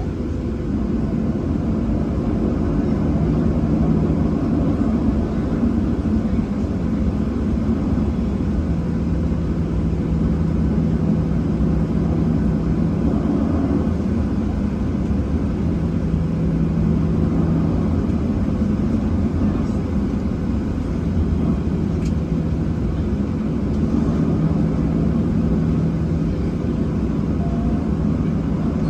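Cabin noise inside a Boeing 737-700 lining up on the runway: its CFM56-7B turbofans running steadily at idle, a constant low hum with a steady droning tone under it.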